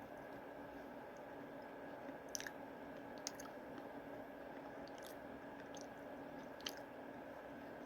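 Someone chewing a miniature peanut butter cup, with a few sharp clicks along the way, over a steady faint hum.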